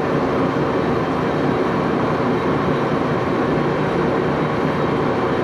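Axelson engine lathe running steadily, an even mechanical hum and whir.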